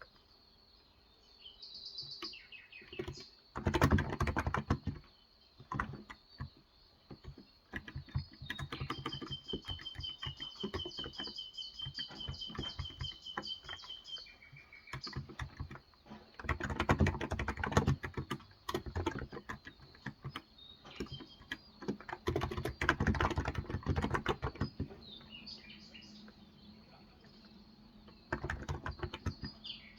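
Typing in bursts on a Cox Endeavour electro-capacitive (Topre-style) keyboard with light 35 g switches, the keystrokes soft and clacky with short pauses between runs. Birds chirp in the background, with a quick high trill from about nine to fourteen seconds in.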